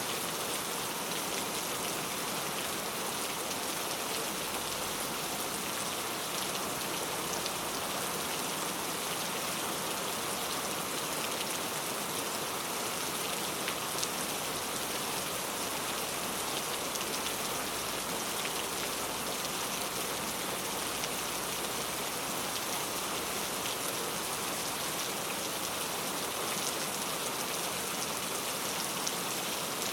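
Heavy rain falling steadily, a dense even hiss with many small drop patters on a surface.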